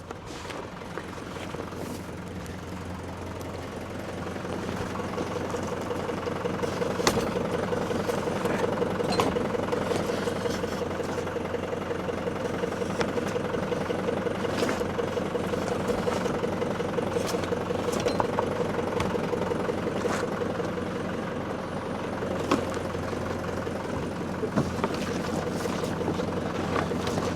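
A motor vehicle's engine running steadily, growing louder over the first several seconds and then holding steady, with scattered clicks and clanks over it.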